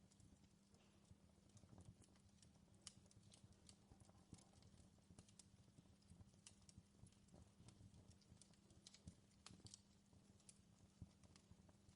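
Faint crackling of a wood fire in a fireplace: irregular sharp pops and snaps over a low steady rumble.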